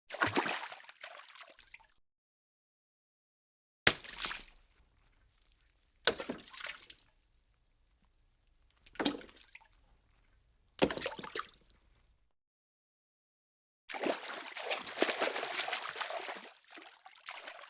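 A series of separate water sound effects, sloshing and splashing: about six short takes, each starting sharply and dying away, with silent gaps between. The last one, near the end, is longer and busier.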